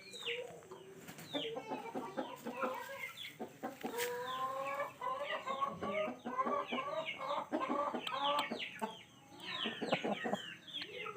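A flock of Aseel chickens clucking and calling, with many short, overlapping calls that fall sharply in pitch, busiest in the middle.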